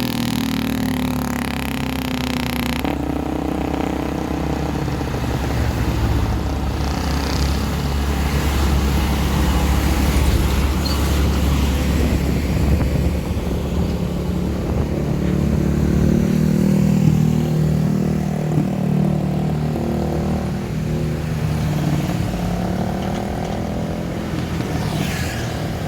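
Heavy diesel engines of earthmoving machinery, dump trucks and excavators, running under load. The engine note rises and falls, and the sound changes abruptly about three seconds in.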